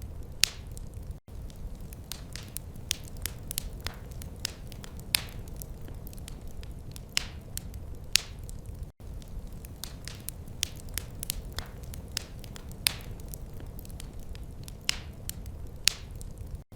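Fireplace fire crackling: irregular sharp pops and snaps, a few a second with an occasional louder one, over a low steady rumble. The sound cuts out for an instant twice, about a second in and again around nine seconds.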